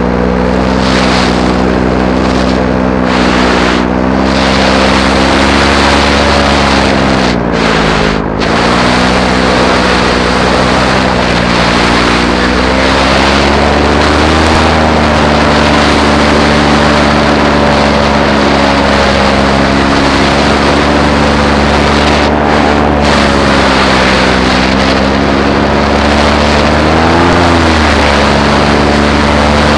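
Paramotor engine and propeller running steadily in flight, the pitch wavering with the throttle and dipping briefly about eight seconds in.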